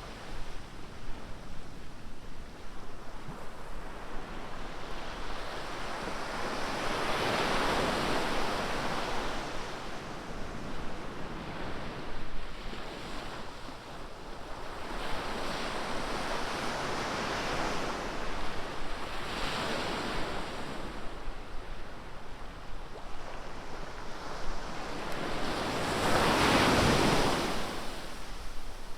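Ocean waves breaking on a beach, a steady wash of surf swelling every few seconds, with the largest wave breaking near the end. Some wind noise on the microphone.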